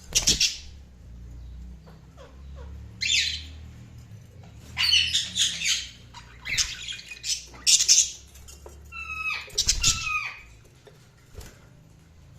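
Budgerigars chirping and squawking in a series of short, loud calls, with a couple of clear whistled notes near the end.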